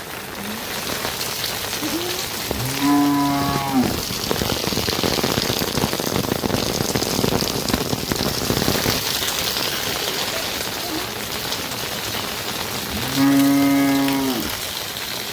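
A cow mooing twice, about ten seconds apart, each a steady call lasting a little over a second, over steady rain.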